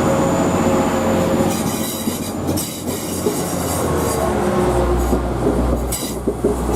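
Class 185 diesel multiple unit pulling away from the platform. Its underfloor Cummins diesel engine rises to a heavy low rumble from about four and a half seconds in, with the clack of wheels over rail joints.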